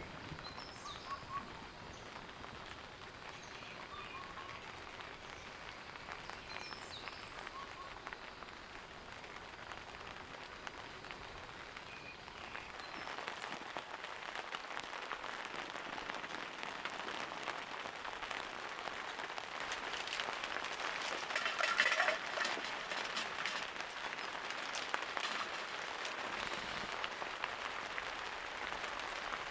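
Steady rainfall, getting heavier about halfway through and loudest around two-thirds of the way in.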